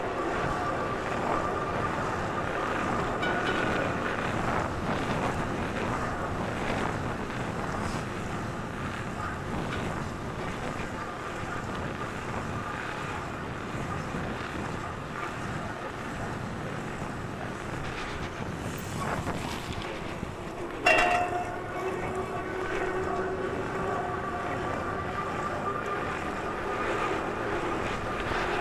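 Riding noise from a bike on the move: wind on the microphone and a faint steady whine. About 21 seconds in there is one sharp knock with a short ring after it.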